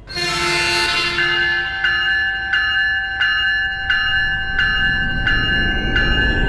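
Railroad grade-crossing bell ringing steadily, about one and a half strikes a second. It starts with a brief burst of several tones at once. In the second half a train's rumble grows louder as it approaches.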